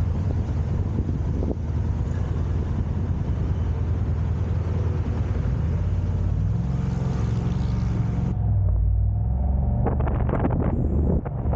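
Steady low rumble and road noise of a car being driven. Near the end it turns to choppy wind buffeting on the microphone.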